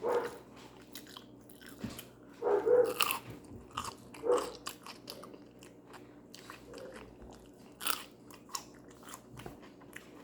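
Close-miked chewing and crunching of food, with sharp mouth clicks and a few louder crunchy bites.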